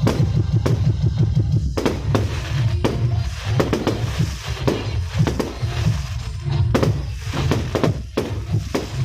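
Loud music with a heavy pulsing bass beat, mixed with sharp fireworks bangs and, from about three seconds in, a crackling hiss of fireworks.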